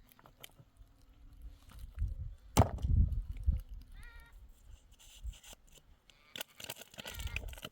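Sheep or goats of a herd bleating: a short call about four seconds in and another near the end. A sharp knock comes about two and a half seconds in, with a low rumble around it.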